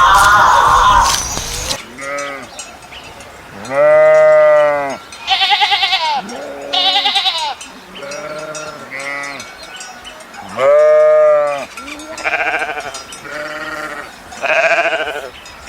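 Sheep bleating over and over, about nine calls of mixed length, each rising and then falling in pitch, some long and loud, others short and higher. Just before the bleating begins, a loud, noisy sound cuts off sharply, a little under two seconds in.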